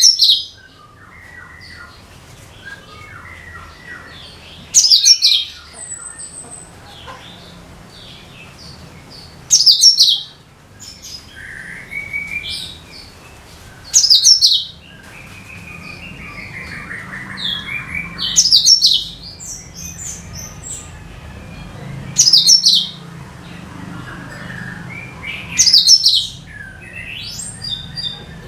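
A cucak kinoi singing: a short, loud, high-pitched phrase repeated about every four to five seconds, with softer chirps and gliding notes between.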